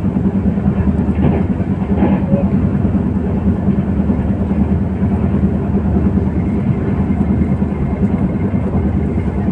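Steady low rumble of a moving train, heard from inside a carriage.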